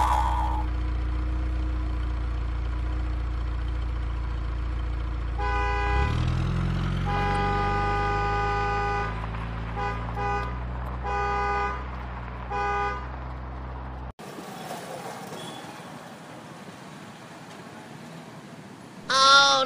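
Truck engine sound effect with a steady low hum that revs up about six seconds in, over which a horn honks about six times, some long and some short. It all cuts off abruptly partway through, leaving faint background noise, and a loud pitch-bending sound comes right at the end.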